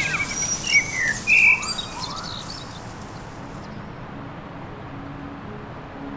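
Small birds chirping in quick, high calls for the first two seconds. The high sound then cuts off abruptly, leaving a faint low bed with a few soft, sustained low notes.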